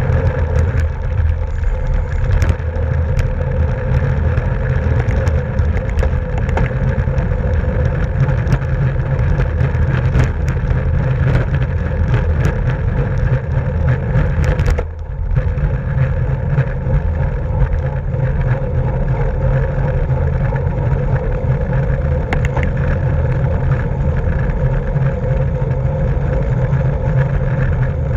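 Wind rushing over a bike-mounted camera's microphone at racing speed, a loud, steady rumble with a steady hum from the bicycle and scattered light clicks. It dips briefly about halfway through.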